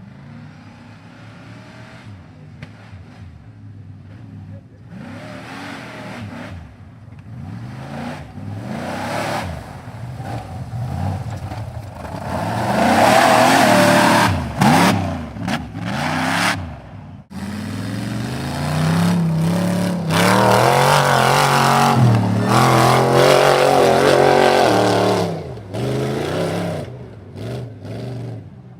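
Off-road 4x4 truck engine revving hard under load, its pitch rising and falling again and again. It builds from a low running note to two long, loud spells of full throttle in the middle and latter part, then drops back.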